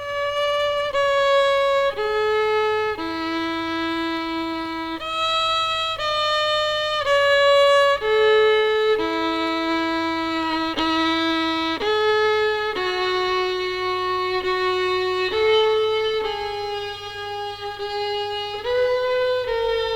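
Solo violin playing a slow melody of held notes, each lasting about one to two seconds.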